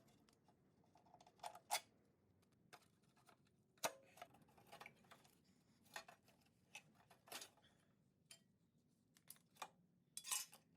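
Faint, irregular clicks and light taps from hand tools working on the engine's alternator and belt-tension bolts, with a short cluster of them near the end.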